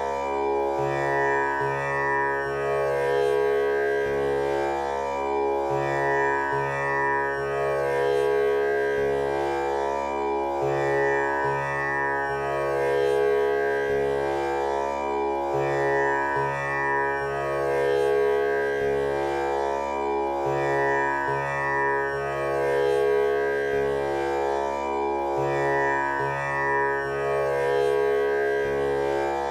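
Tanpura drone tuned to C# for a male vocal range: its strings are plucked in turn in a cycle that repeats about every five seconds, each note sustaining with a rich, buzzing wash of overtones.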